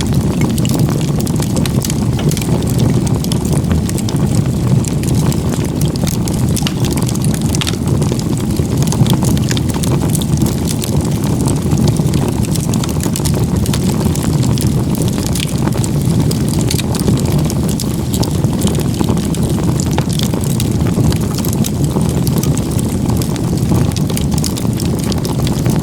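Firewood burning in a log-cabin-stacked campfire: a steady low rush of strong flames with frequent small crackles and pops from the wood.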